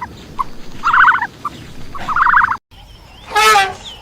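Turkey gobbling: two rapid, trilled gobbles about a second apart. After a sudden cut, a short pitched call with many overtones comes near the end.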